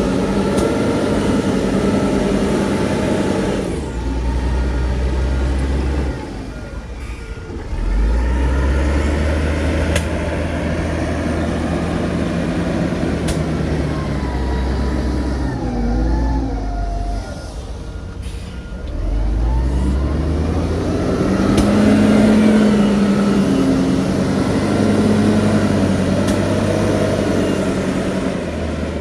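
Heavy diesel engines of a bulldozer and dump truck working, the engine note rising and falling over and over as they rev under load, with deep rumbling and a few sharp clicks.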